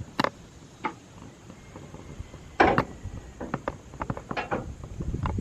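A series of separate sharp clicks and light knocks, the loudest about two and a half seconds in, followed by a run of smaller ticks.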